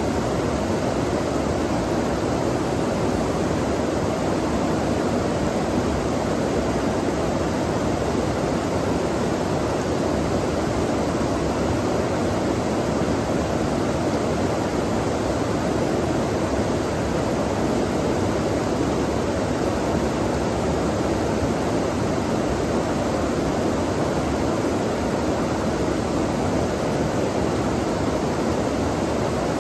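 Flowing water, a steady, unbroken rush with no separate splashes.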